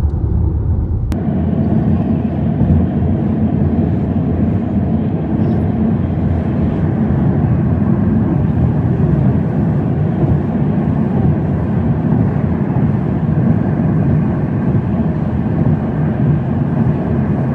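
Steady road and engine noise of a car driving, a rumble that starts abruptly about a second in and holds even throughout.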